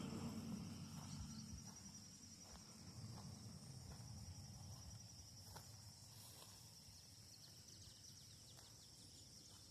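Faint steady high-pitched insect chirring in the riverside vegetation, with a low rumble fading out over the first two seconds.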